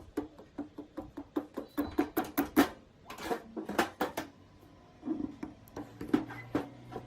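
Quick series of sharp knocks on a metal part, about three to four a second, each with a short ring. They come in two runs with a brief pause a little past four seconds in.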